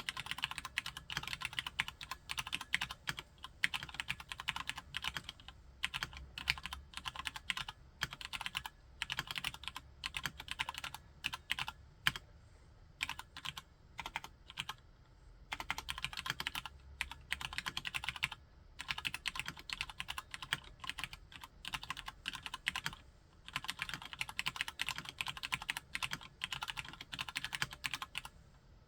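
Typing on a Cherry G80-3000S tenkeyless mechanical keyboard with Cherry MX Brown switches. Fast runs of keystrokes are broken by short pauses, the longest about halfway through.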